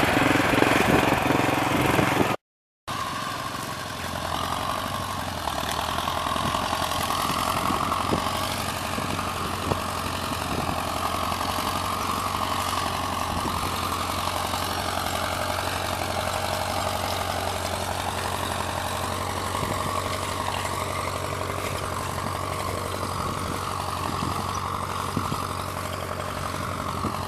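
Farm tractor engine running steadily while pulling a plow, the tractor working well.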